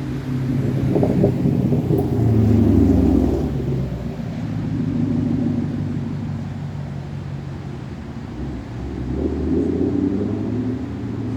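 Straight-piped 6.2-litre V8 exhaust of a Camaro SS running with a deep rumble, swelling louder about two seconds in and again near the end.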